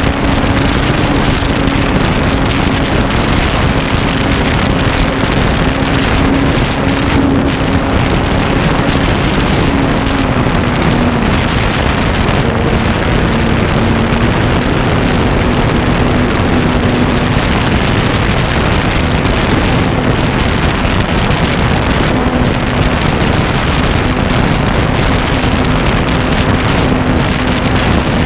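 RC airplane's motor and propeller droning steadily in flight, heard from a camera mounted on the plane, under heavy wind rush over the microphone. The drone's pitch sags briefly about halfway through, then comes back up.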